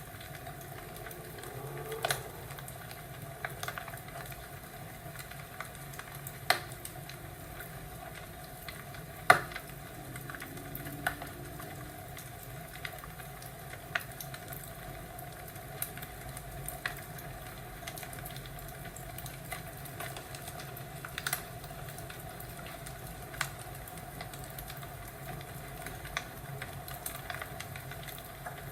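Crackling wood fire: a steady low hiss and rumble with sharp pops at irregular intervals of a second to several seconds, the loudest pop about nine seconds in.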